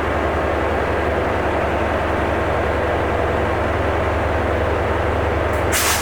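Train at a station running with a steady, loud rumble and hiss, broken by one short sharp clank just before the end.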